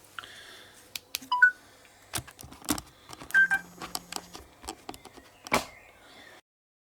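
Irregular clicks and knocks of handling, with a few short electronic beeps. The sound then cuts off abruptly near the end.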